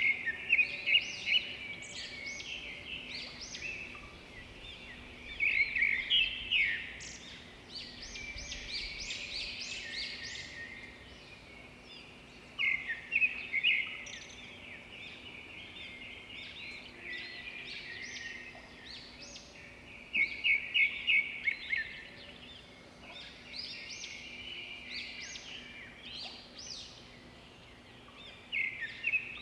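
Wild birds calling and singing together in many short chirps. Loud bursts of quickly repeated notes come about every seven seconds, with softer chirping between them.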